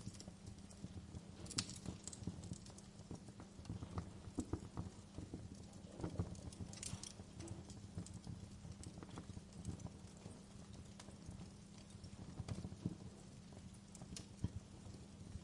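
Wood fire burning: irregular crackles and snaps over a steady low rumble, with a few louder pops.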